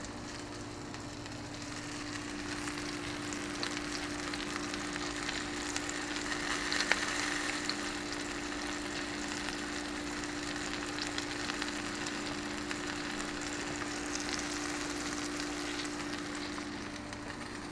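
Pork chops sizzling steadily as they fry in oil in a pan, with a constant low hum underneath.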